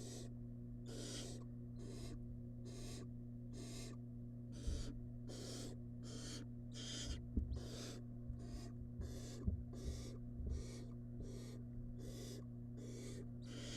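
Barn owl nestlings' hissing begging calls, a rasping snore-like hiss repeated about twice a second, over a steady electrical hum. A few low thumps come in the middle.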